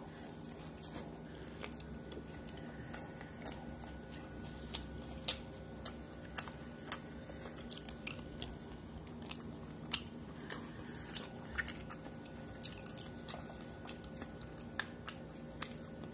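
A person chewing a mouthful of corn-tortilla street taco close to the microphone, with irregular wet clicks and smacks of the mouth. A steady low hum runs underneath.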